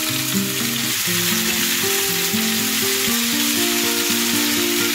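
Chopped bell peppers and baby corn sizzling in hot oil in a pan as they are sautéed over a high flame, stirred with a spatula. Background music with held notes plays throughout.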